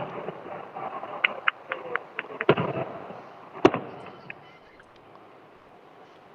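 Fireworks popping: a quick run of sharp cracks, then a louder bang about three and a half seconds in, after which it goes quiet.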